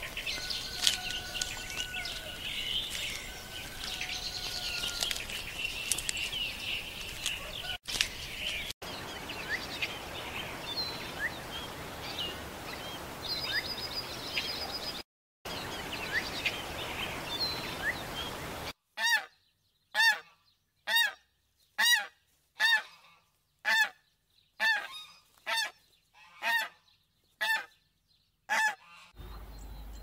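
Small birds chirping over a steady outdoor background, then a series of about fifteen loud honking bird calls, about two a second, each sliding slightly down in pitch.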